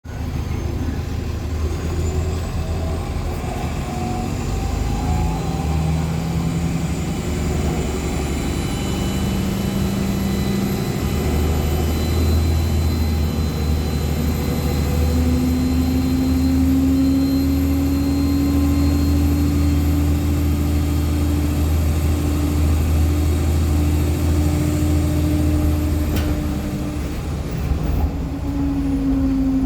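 Ride inside a NOVA Bus LFS Artic hybrid articulated bus under way: steady low drone of its Cummins ISL9 diesel, with a thin high whine over most of the ride and a mid-pitched hum that comes in about halfway and slowly rises.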